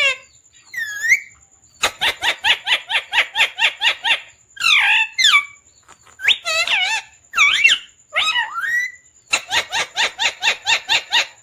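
Pet parrot calling loudly: two runs of fast, sharp repeated notes, about seven a second, with single swooping squawks between them.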